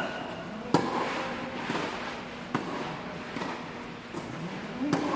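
Tennis rally: a ball struck by rackets with sharp pops about every two seconds, three main hits, the first the loudest, with fainter knocks of the ball between them.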